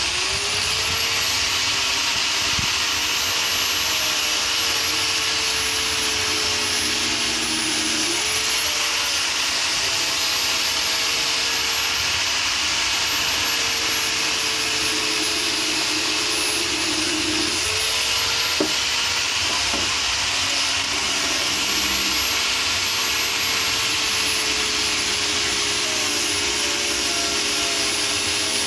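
High-speed electric motor of a woodworking power tool spinning up in the first second, then running steadily with a hissing whine whose pitch sags slightly a few times.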